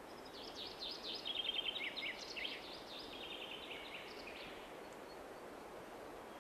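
Small songbirds chirping and trilling faintly over quiet outdoor background noise, dying away after about four and a half seconds.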